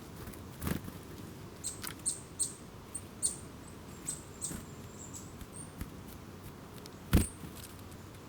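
Small wild birds giving a rapid run of short, thin, very high-pitched calls and chirps through the middle. Two dull thumps cut across them, the louder one near the end.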